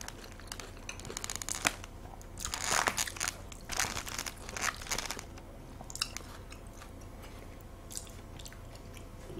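Close-up sounds of a person chewing and biting mouthfuls of raw salmon sashimi: clusters of wet, smacking mouth noises from about a second and a half in to about five seconds, then only a couple of isolated ones.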